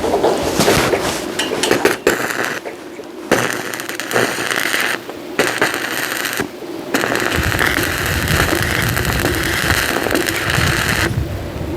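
Electric arc welding: a steady, dense crackle from the arc, stopping briefly several times between welds.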